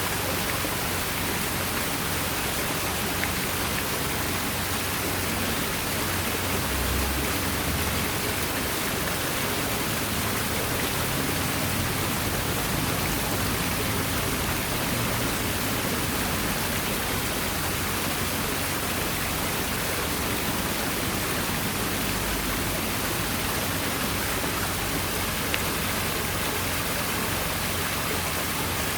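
Water from an artificial rock waterfall splashing down steadily in an even rushing hiss.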